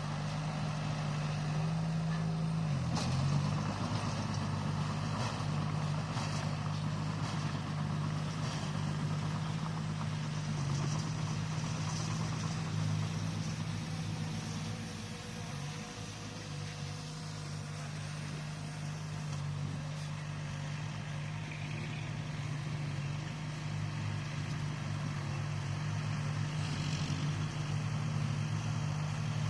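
Bulldozer's diesel engine running steadily with a low hum, its pitch dipping briefly about three seconds in.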